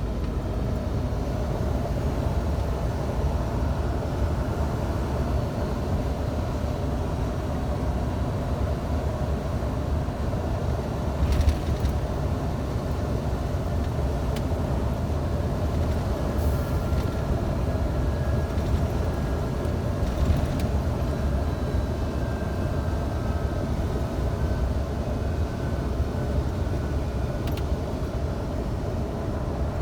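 Scania truck driving on the road, its engine and road noise running steadily. There is a short knock or clatter about 11 seconds in and again about 20 seconds in.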